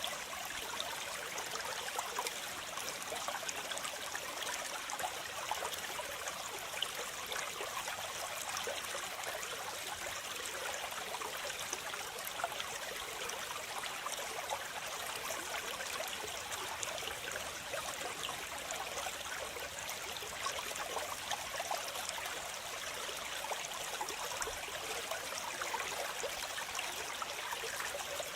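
Waterfall: water falling and splashing steadily, an even rushing hiss with fine crackling splashes.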